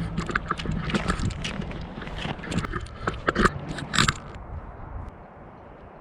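A quick run of close scrapes, clicks and crunches, like gear or the microphone being handled, stopping about four and a half seconds in.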